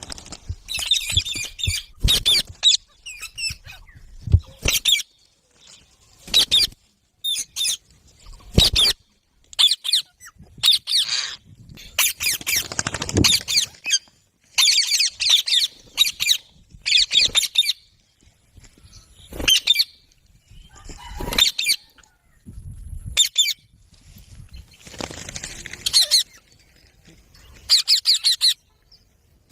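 Pet Indian ringneck parakeets chattering and squawking in many short, high-pitched bursts, with a few low thumps in between.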